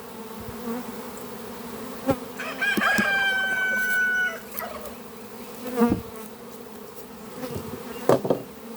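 Honeybees humming in a steady drone around an opened hive, stirred up by the hive being split. About two and a half seconds in a rooster crows for about two seconds, and there are a few sharp knocks.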